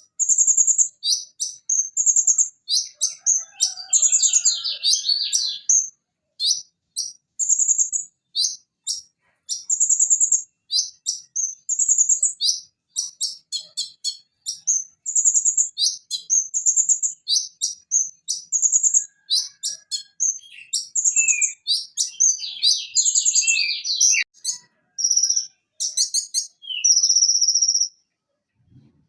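Purple-throated sunbird (konin) singing: a rapid, continuous string of sharp, very high notes and quick trills, with a short pause near the end.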